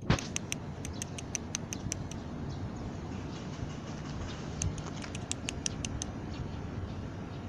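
A puppy squeaking: short high-pitched squeaks, about five a second, in two runs, with a knock at the start.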